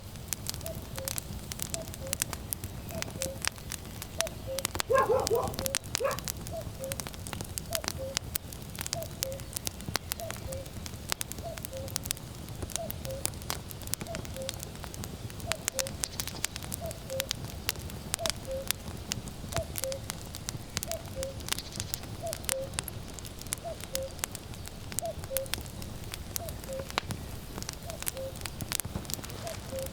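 Wood fire crackling with sharp pops over a low rumble, while a cuckoo repeats its falling two-note 'cu-coo' call every second or so. A short, louder sound cuts in about five seconds in.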